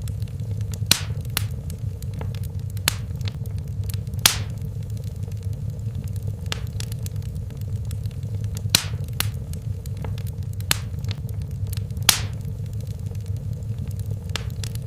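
Wood fire crackling in a fireplace: irregular sharp pops and snaps over a steady low rumble of the flames. The loudest pops come about four, nine and twelve seconds in.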